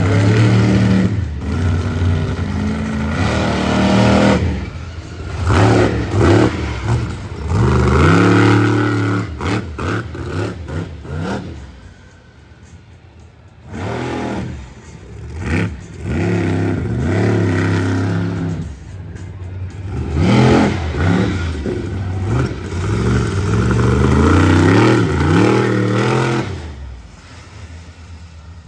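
Monster truck's supercharged V8 engine revving hard again and again, the pitch surging up and falling back with each throttle blip, with a quieter lull about halfway through.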